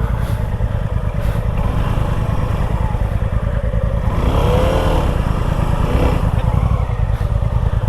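Motorcycle engine running with a steady low, rapidly pulsing rumble, and a brief wavering tone about four seconds in.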